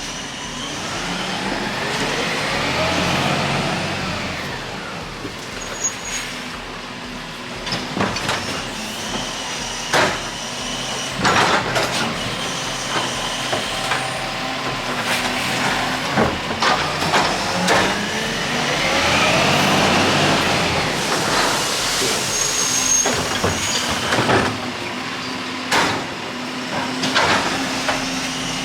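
Garbage truck at work: its engine revs up twice, with a string of loud metal bangs and clanks in between.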